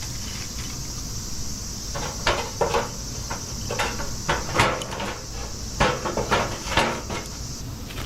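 Irregular clattering knocks, about a dozen between two and seven seconds in, over steady high-pitched insect chirring.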